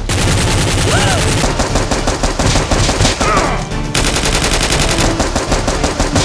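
Rapid automatic gunfire sound effects: dense, continuous volleys of shots fired in quick succession, of the kind dubbed over Nerf-war action scenes.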